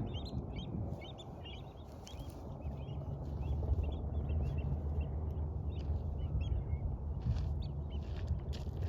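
Many wetland birds calling at once, a busy scatter of short overlapping chirps and calls over a steady low rumble.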